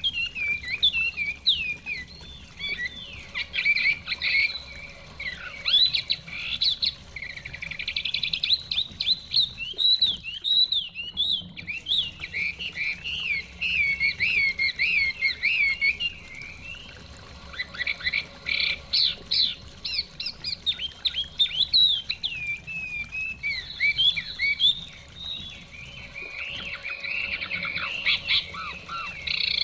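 Chinese hwamei (Garrulax canorus) singing a long, rapid, varied song of whistled phrases and trills, with short pauses about a third of the way in and again near the end. A faint steady rush, the flowing stream, lies underneath.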